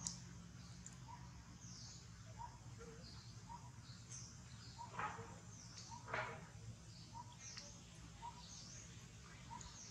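Faint bird chirps repeating, a short high call about every second, over a steady low background hum. Two brief, louder scratchy sounds come near the middle.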